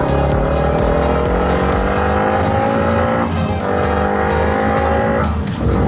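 Car engine accelerating, rising steadily in pitch, with a break about halfway through and another near the end as the gears shift up.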